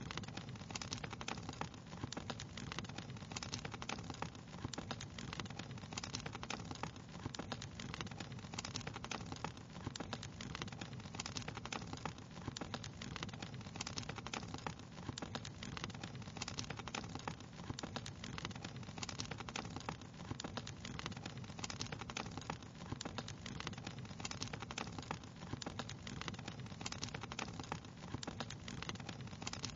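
Wood fire crackling steadily: many small irregular pops and snaps over a soft, continuous hiss.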